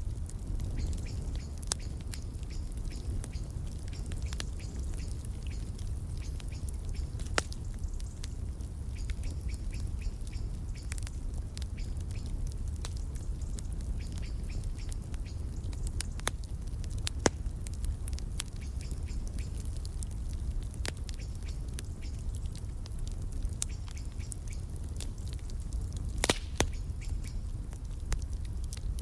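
Wood fire crackling over a steady low rumble, with scattered sharp pops, the loudest one near the end, and birds chirping faintly in the background.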